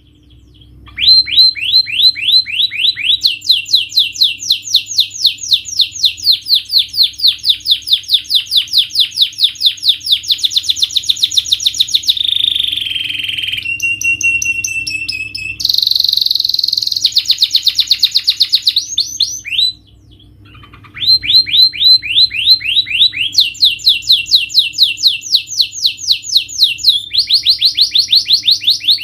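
Domestic canary singing a long song of fast trills, each run of rapidly repeated notes switching to a new note type every few seconds. There is a short held whistle midway. The song breaks off briefly about a second in and again about twenty seconds in.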